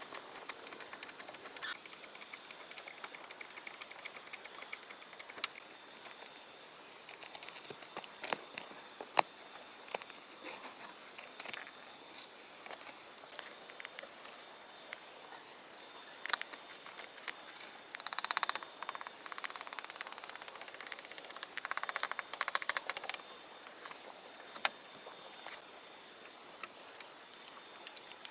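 Outdoor ambience with faint high chirping, many scattered light clicks and knocks, and two short rasping, scraping bursts about two thirds of the way through.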